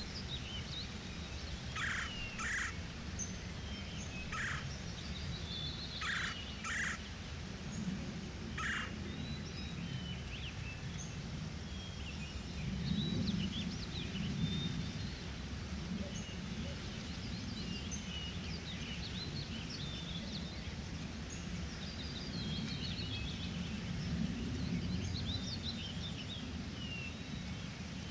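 Forest ambience of several birds singing and chirping over a steady low rumble. In the first nine seconds one louder bird call repeats about six times, partly in pairs; after that, many small high chirps go on.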